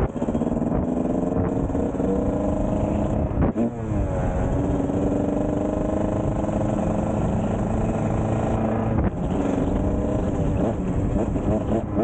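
Kawasaki KX125's 125 cc single-cylinder two-stroke engine running. Its pitch climbs slowly, drops sharply about three and a half seconds in, climbs again, and dips once more about nine seconds in.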